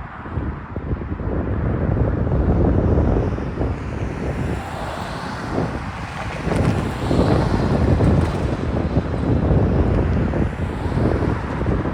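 Wind buffeting the microphone: a loud, uneven low rumble that swells and fades.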